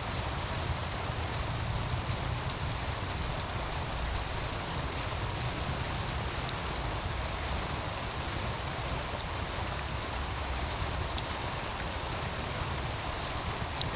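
Wood fire crackling with scattered sharp pops, over the steady rush of a meltwater stream and a low rumble underneath.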